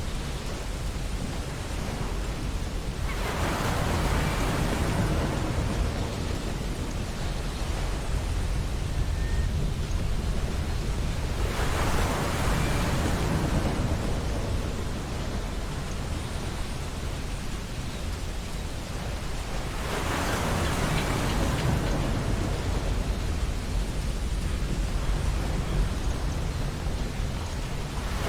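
Ocean surf on a beach: three waves break about eight seconds apart, each a sudden rush of foam that slowly fades back, over a steady low rumble of the sea.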